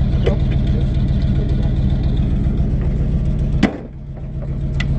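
Vehicle engine idling with a steady rumble, broken by one sharp thump about three and a half seconds in, after which the engine sound drops away briefly and then comes back up.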